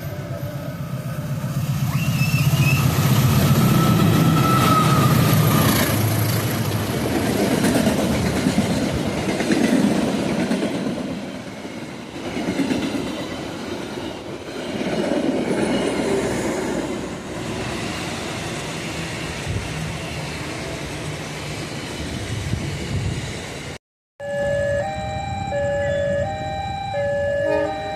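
A diesel locomotive passes close by with its engine running, followed by the long rumble and clatter of its train of carriages going past. About three-quarters of the way through, the sound cuts off abruptly and is replaced by a short electronic melody.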